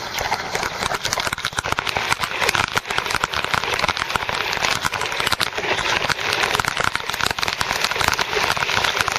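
Heavy squall rain pelting down, a dense, continuous crackle of drops striking close by.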